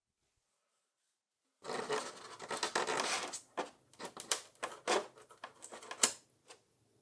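Scraping on a surface for about two seconds, then a series of sharp clicks and light taps, the loudest near the end.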